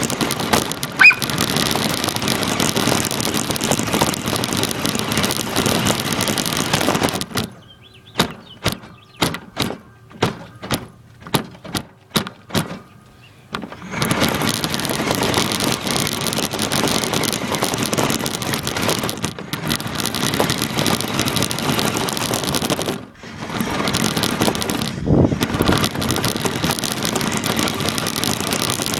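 An RC car driving, heard from an iPod taped to the car: a steady loud rush of motor, tyre and wind noise. In the middle, for about six seconds, the rush drops away and a string of sharp clicks and knocks is heard before the noise starts again.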